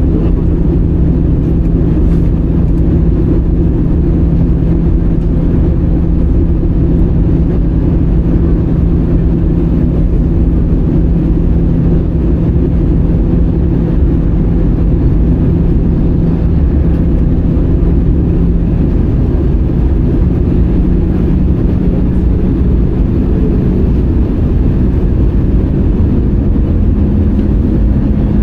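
Steady cabin noise of an Airbus A320-200 in flight, heard inside the passenger cabin: a deep rush of engine and airflow with a low hum. The hum steps up slightly in pitch about two thirds of the way through and again near the end, a change in engine thrust.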